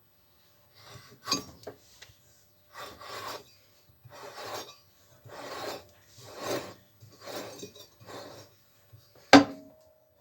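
Repeated rasping, scraping strokes on a hard surface, about one a second, then a single sharp metallic knock with a short ring near the end.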